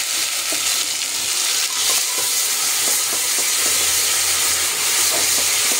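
Onion, ginger, garlic and green-chilli paste frying in hot oil in a pressure cooker: a steady sizzle with many small crackles and pops.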